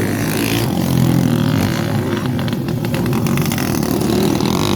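Honda XRM motorcycles running and revving hard in a motocross race, a steady loud engine sound with shifting pitch.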